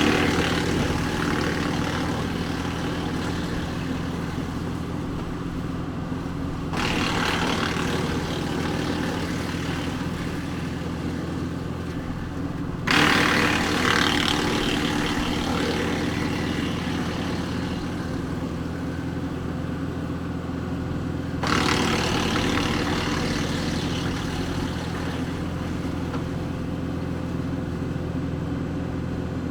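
A Woodland Mills WC68 wood chipper is driven by the PTO of a Kubota L4060 tractor, whose diesel engine runs steadily at high speed. Four times, about every seven seconds, a sudden rush of shredding noise rises as branches are fed in and chipped, then fades away over several seconds.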